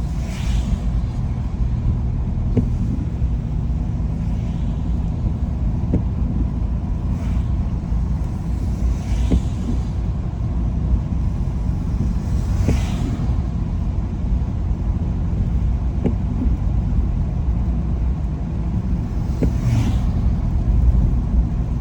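Steady road rumble inside a car driving on wet roads in the rain, with a brief hiss every few seconds.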